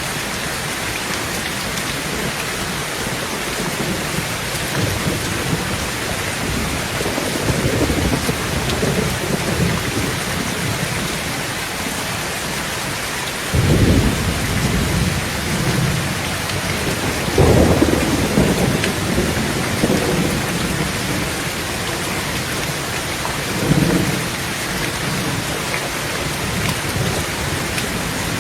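Heavy rain falling steadily on a tin tent roof, with thunder rumbling: a low roll about a quarter of the way in, then a sudden clap about halfway, a louder one a few seconds later, and a shorter one near the end.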